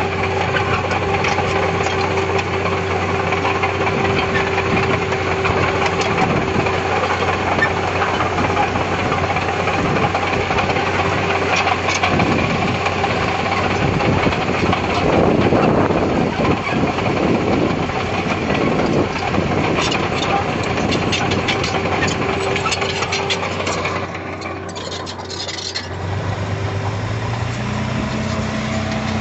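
Diesel engine of heavy earthmoving machinery running steadily, working harder and louder for a few seconds around the middle. Near the end it drops off briefly and gives way to a different, lower steady hum.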